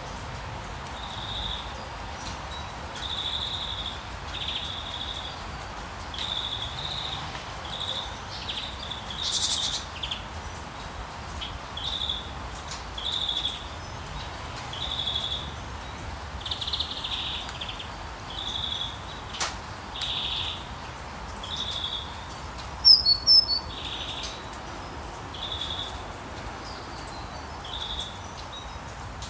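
Bird chirping in short, repeated calls about once a second over a steady background hiss. A few louder, higher-pitched calls come about two thirds of the way through.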